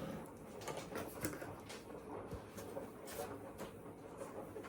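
Light rustling and scattered soft clicks of packaging and parts being handled while unboxing.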